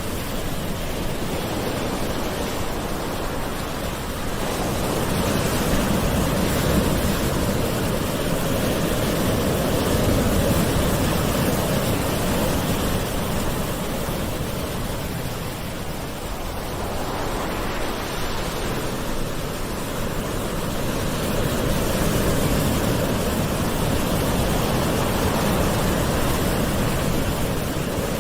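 Gentle sea waves: a continuous rush of surf that swells about five seconds in, eases around the middle, and swells again from about eighteen seconds.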